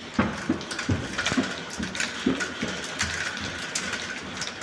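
Rain from a short summer thunderstorm falling steadily, with irregular drips and splashes on hard surfaces and pooled water.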